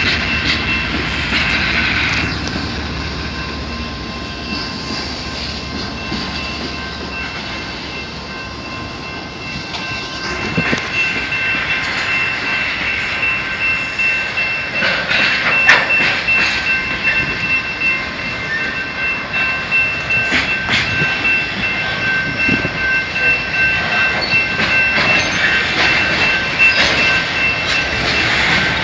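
Freight train of autorack car-carrier cars rolling past, the wheels clicking over rail joints with a steady high-pitched squeal; a low locomotive rumble fades away in the first couple of seconds and the rolling noise grows louder partway through.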